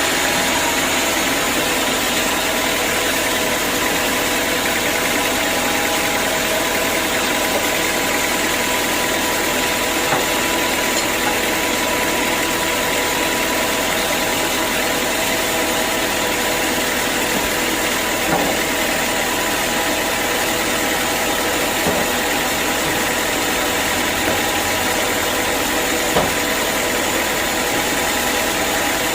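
Sawmill machinery running steadily: an even mechanical hum with a few faint clicks.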